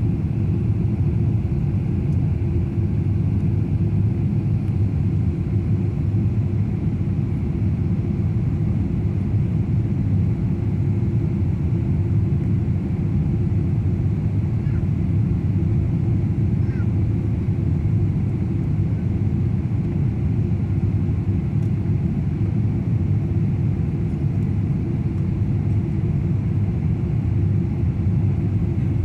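Steady low rumble of engine and airflow noise inside a Boeing 777-300 passenger cabin during the descent for landing.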